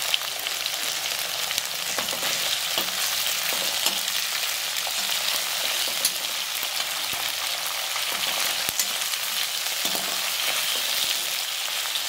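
Shallots, whole spices, dried red chillies and fresh curry leaves sizzling in hot oil in a kadai, with a steady hiss and scattered sharp pops and crackles. A metal slotted spatula stirs and scrapes through the pan.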